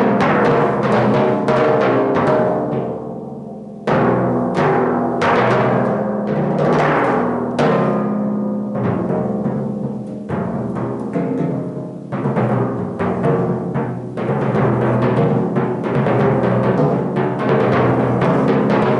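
Solo performance on four timpani: a fast run of mallet strokes across the drums, their pitched tones ringing over each other. Partway through, one note is left to ring and die away before the strokes start again with a strong accent, and several more accents follow.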